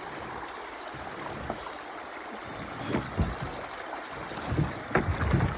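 Creek water running steadily over a beaver dam, with a few knocks and low thumps in the second half, loudest near the end, as the kayaks bump against the dam.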